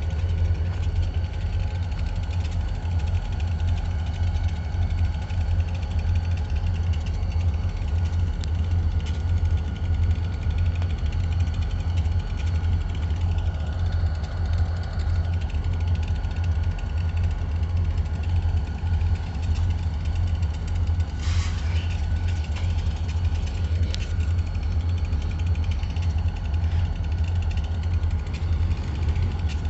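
An engine idling steadily with a low, even rumble. A brief faint sound comes about twenty-one seconds in.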